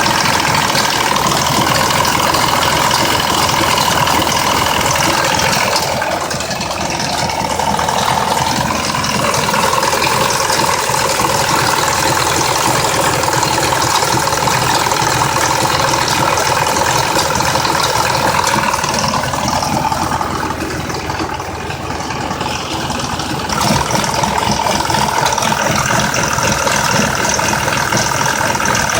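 2004 Mazda 6s 3.0 L V6 engine idling roughly with a ticking rattle, going briefly quieter twice. The rough idle could be caused by a failed variable valve timing solenoid on bank 2, engine 170k miles on.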